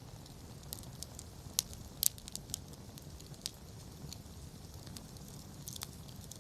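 Campfire crackling: scattered sharp pops over a low steady rumble, with a quick cluster of pops about two seconds in.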